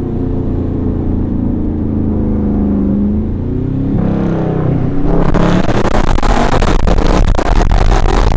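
Car engine with a straight-piped exhaust accelerating, its pitch climbing over the first few seconds, then a louder, rougher full-throttle run from about five seconds in.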